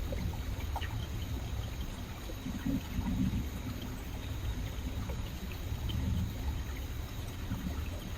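River water flowing steadily, a low rushing noise with faint short splashy ticks scattered through it.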